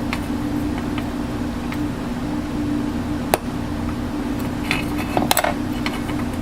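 Steady machine hum with a sharp click about a third of the way in and a brief clatter of small metal pieces a little past the middle.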